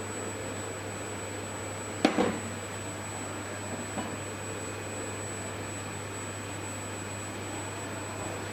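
Steady low workshop hum with one sharp knock about two seconds in, followed a couple of seconds later by a faint click.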